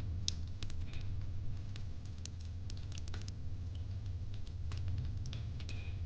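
Wood fire in a fire pit crackling: irregular sharp pops and snaps, several a second, over a steady low rumble.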